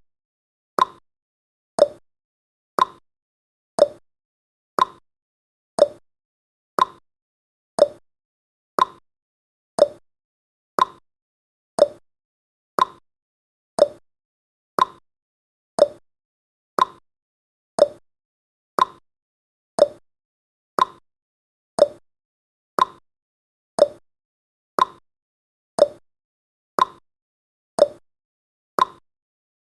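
Clock-style tick-tock sound effect of a countdown timer: one short, sharp tick about every second, alternating between a higher and a lower tick.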